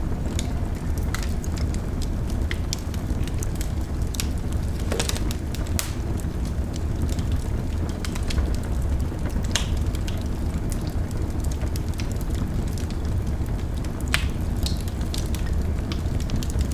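Wood fire burning in a fireplace: a steady low rumble of the flames with scattered sharp crackles and pops, a few louder ones about five, ten and fourteen seconds in.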